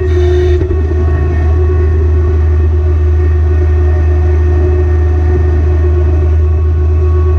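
Kubota BX compact tractor's three-cylinder diesel engine running steadily under work, a constant low drone with a steady higher whine over it.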